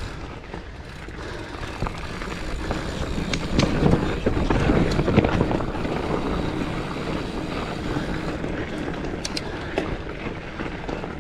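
Giant Fathom mountain bike rolling over a loose dirt trail: the tyres crunch on loose soil and the bike rattles, with scattered clicks and knocks and a steady low rumble of wind on the microphone.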